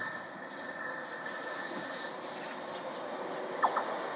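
Distant train approaching along the line, heard as a steady even rumble. Two brief sharp high chirps come about three and a half seconds in.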